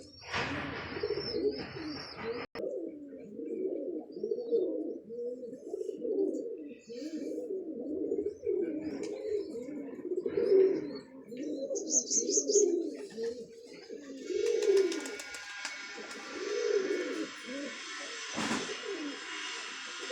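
Domestic pigeons cooing over and over, many calls overlapping, with high chirps near the start. From about two-thirds of the way through, a dense, high, steady sound joins the cooing.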